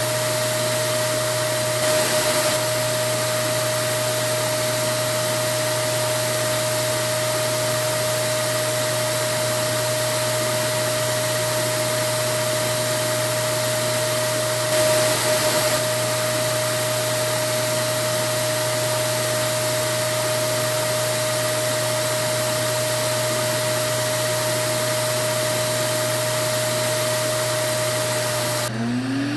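Vacuum cleaner running steadily: a continuous rushing-air hiss over a steady motor whine, briefly louder twice. Near the end the hiss drops away and a rising whine begins.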